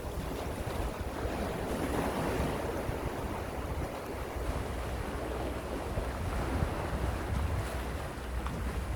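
Gentle sea waves washing ashore, a steady wash of surf that swells a little about two seconds in, with a low rumble of wind on the microphone underneath.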